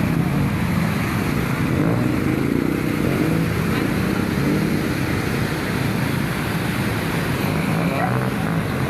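Motor vehicles running on a flooded street, a steady low engine rumble.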